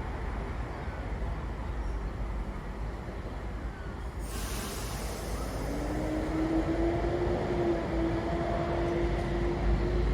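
Electric intercity train (H set) with a short burst of air hiss about four seconds in. Its motors then start a whine that slowly rises in pitch and grows louder as the train begins to pull away.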